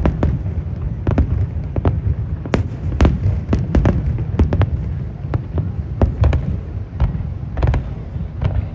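Fireworks display exploding: irregular sharp bangs, about two a second, over a continuous low rumble.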